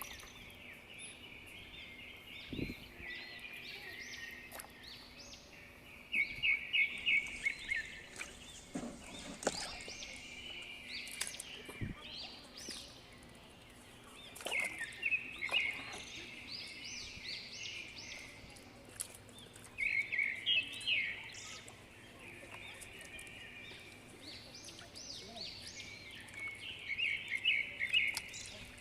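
Small birds chirping, with short bursts of quick high chirps every few seconds over a faint steady background.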